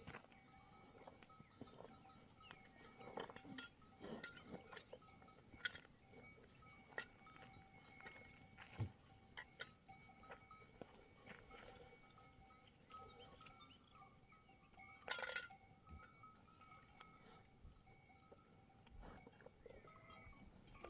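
Livestock bells on a grazing flock of sheep and goats clinking faintly and irregularly, with a louder stroke about fifteen seconds in.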